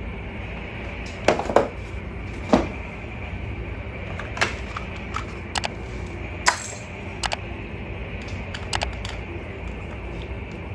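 Scattered light clicks and knocks of small hard objects being handled, about nine in all and loudest in the first few seconds, over a steady hum.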